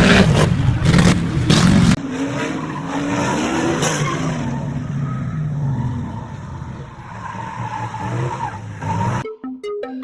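Car engine running and revving with tyre noise, after a loud, rough first two seconds with several knocks. Electronic music starts near the end.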